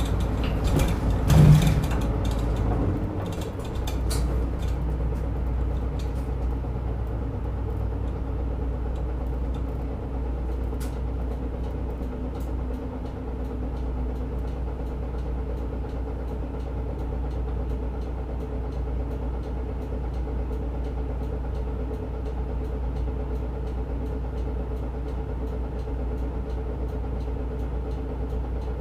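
Inside a route bus: the diesel engine runs with a steady low rumble and a steady hum. There is a brief louder sound about a second and a half in.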